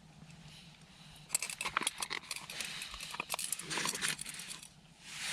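Spoon stirring and scraping stew in a foil food pouch: quick crinkling, scraping and small clinks, starting about a second in and easing off near the end.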